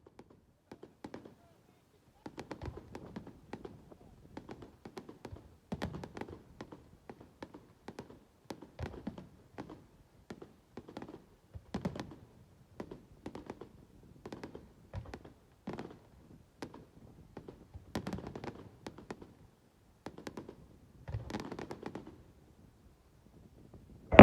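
Fireworks going off: a long, irregular run of sharp pops and crackles, often several a second, with small clusters of denser crackling.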